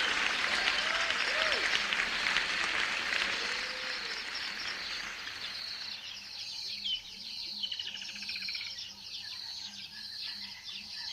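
Applause fading out over the first five seconds or so, leaving birds chirping over a steady high-pitched background.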